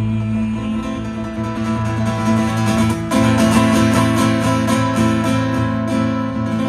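Instrumental passage of a song: acoustic guitar picked and strummed over steady low sustained notes, the picking growing busier about three seconds in.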